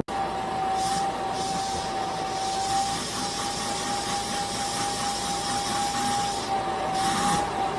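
A steady machine noise: a constant whine held at one pitch over an even rushing hiss, like a small appliance motor running.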